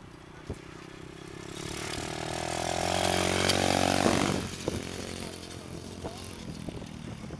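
A 125cc pit bike's engine running as the bike comes closer, growing louder to a peak about three to four seconds in, then dropping away quickly as it goes past and off.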